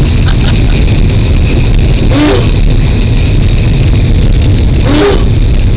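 Steady loud rumble of a train running along the track, heard from the front of the train. Two short pitched sounds rise above it, about two seconds in and near the end.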